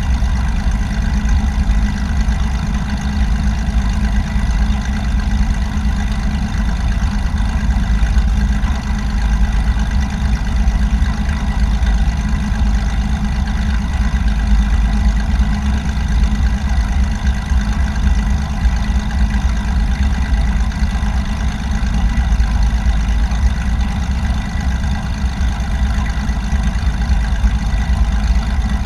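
Small plane's engine and propeller droning steadily, with no change in power.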